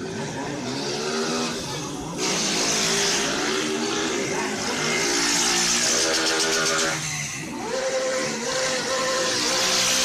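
A vehicle engine revving hard, its pitch climbing and falling again and again. A loud hiss joins about two seconds in. The revs drop briefly near the seven-second mark, then climb again.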